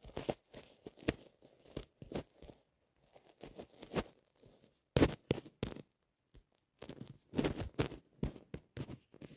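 Irregular crunching and crackling: short clicks at uneven intervals, some loud and some in quick clusters, like something crisp being torn, crumpled or bitten.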